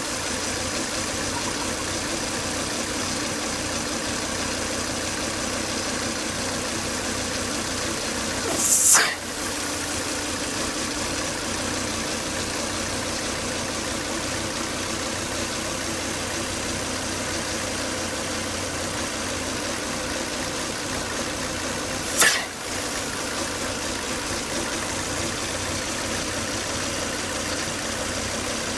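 Volvo S80 2.5T's turbocharged inline five-cylinder engine running steadily at idle. There are two short, loud rushing bursts: one about nine seconds in, another a little past twenty seconds.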